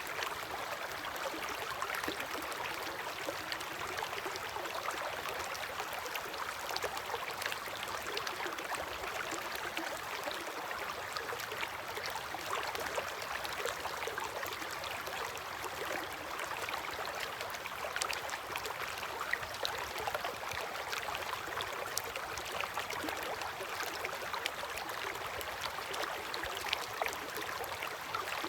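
River water flowing steadily, an even rush of water with many small splashes scattered through it.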